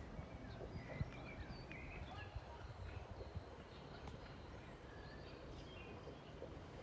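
Birds singing faintly, with short chirps and warbles scattered throughout, over a low steady background rumble.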